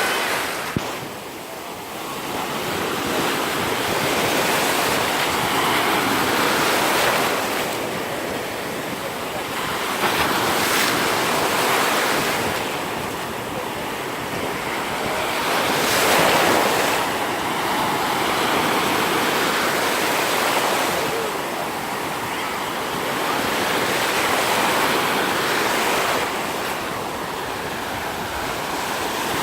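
Black Sea surf breaking and washing up a sandy beach, swelling and easing every few seconds, with some wind on the microphone.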